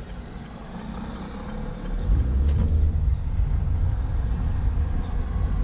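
Car engine and road rumble heard from inside the cabin while driving, growing louder about two seconds in as the car speeds up.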